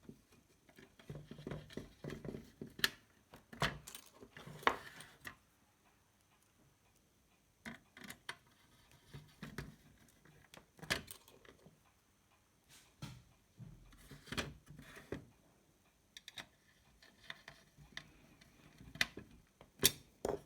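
Scattered small metal clicks, taps and scrapes of hand work as a car stereo's circuit board is fitted back into its metal housing.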